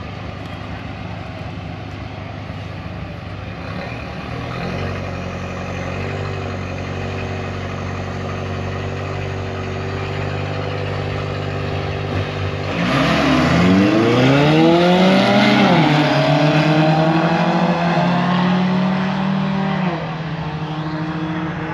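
Car engine running steadily at the start line, then about 13 seconds in it launches hard and revs up through several quick gear changes before holding a high, steady pitch. It drops away near the end: a drag-strip run.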